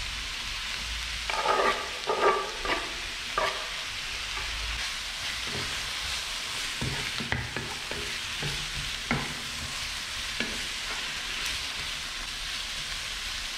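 Sliced mushrooms and onions sizzling in hot oil in a frying pan while a wooden spatula stirs them, with short scrapes and knocks of the spatula against the pan, more of them in the first few seconds.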